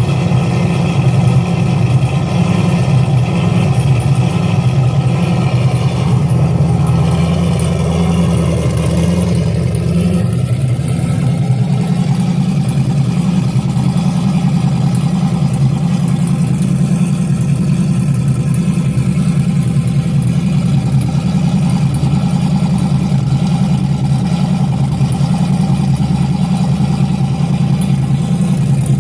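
Big-turbo, cammed LS V8 running steadily, warming up just after a cold start on E85 in below-freezing temperatures. Its sound thins out a little about ten seconds in.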